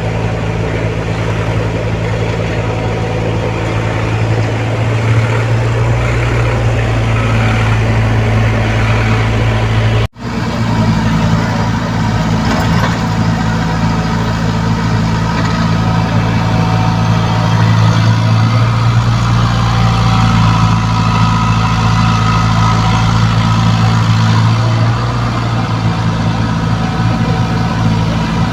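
Komatsu PC75UU mini excavator's diesel engine running steadily with a deep, even hum. The sound cuts out for an instant about ten seconds in, then carries on.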